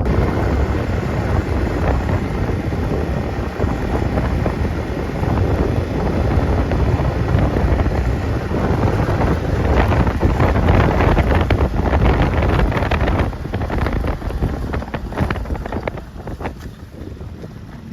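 Strong wind buffeting the microphone in gusts, a loud rumbling roar that rises and falls, easing off a little near the end.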